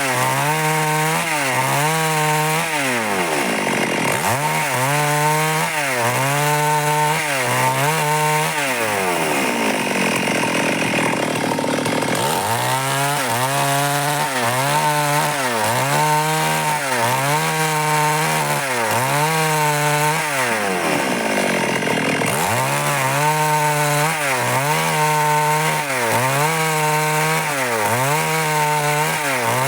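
Stihl MS 382 two-stroke chainsaw cutting wood at high revs. Its pitch dips and recovers about once a second as the chain bites, with a longer sag about a third of the way through.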